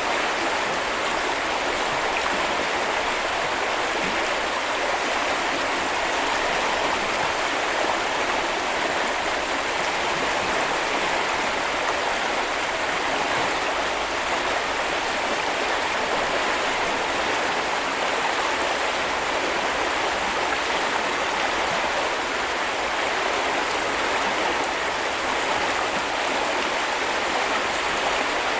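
Small river running over stones: a steady rush of flowing water.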